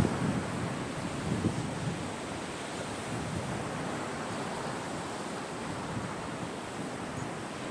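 Caspian Sea waves washing onto the shore: a steady hiss of surf, a little louder in the first second or so before settling to an even wash.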